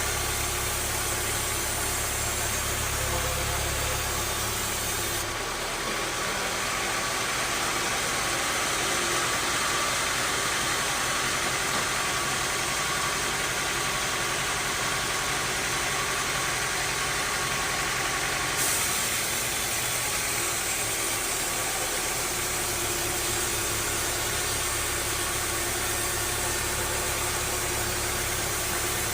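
Bandsaw sawmill machinery running steadily, a continuous engine-like noise whose sound changes abruptly about five seconds in and changes back about eighteen seconds in.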